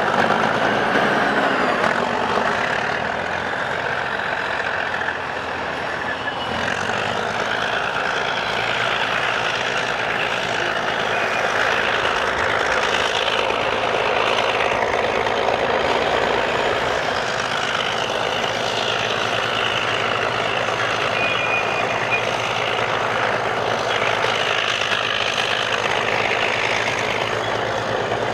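Caterpillar crawler bulldozer's diesel engine running steadily.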